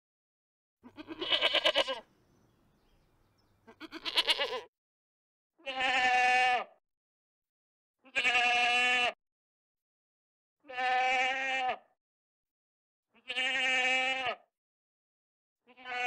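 Goat bleating: two quavering calls, then five steady bleats of about a second each, evenly spaced about every two and a half seconds.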